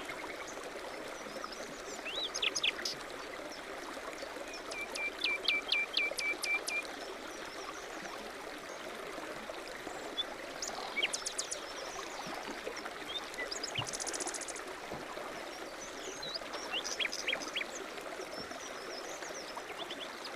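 Small birds chirping and singing over the steady rush of flowing water from a stream. About five seconds in, one bird gives a quick run of about eight identical notes.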